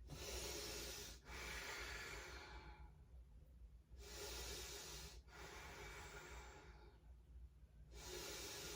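A woman breathing slowly and deeply in a held yoga pose, faint: long hushed breaths in and out, about three full breaths.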